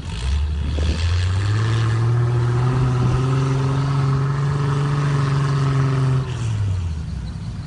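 Off-road 4x4's engine revving up and held at high revs for about five seconds, then the revs dropping off near the end.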